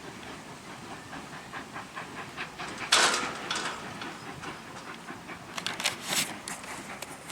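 Steam locomotive standing with a steady background hiss. About three seconds in comes a sudden loud burst of hissing that fades over about a second, followed by a few sharp clicks near six seconds.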